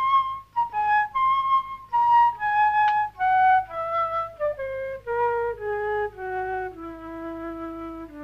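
A flute-like woodwind plays a slow run of short notes that steps steadily downward from high to low.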